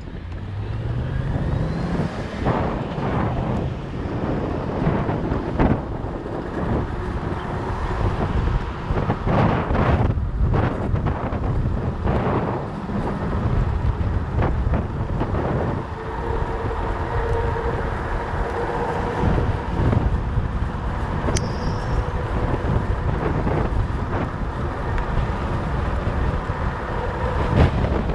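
Wind buffeting the microphone of a moving fat bike, over the rolling noise of its 4.4-inch Schwalbe Jumbo Jim tyres, with a faint steady hum joining about halfway through.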